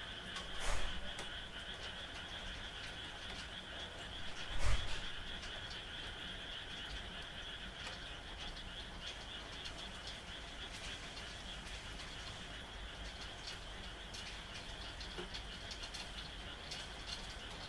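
A chorus of frogs calling steadily over falling rain. Two louder knocks come about a second in and just under five seconds in.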